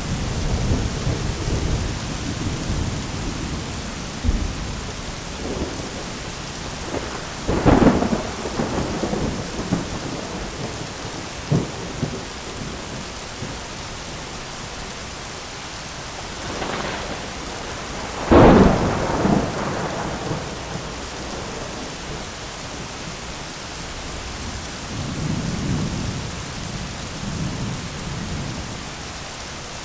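Thunderstorm: steady heavy rain hiss with rolling thunder, two sharp cracks of thunder about 8 and 18 seconds in, the second the loudest, and a low rumble near the end.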